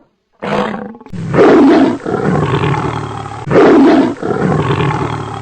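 Tiger roaring: a short opening snarl, then two long, loud roars about two seconds apart, with lower rumbling between and after them.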